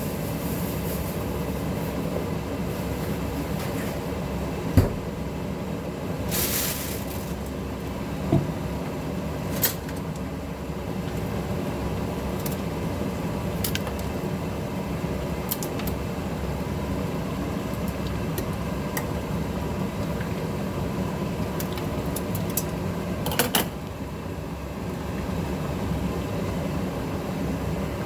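A steady mechanical hum, like a kitchen fan running. Sharp clicks or knocks come now and then, four in all, and there is one brief hiss about six seconds in.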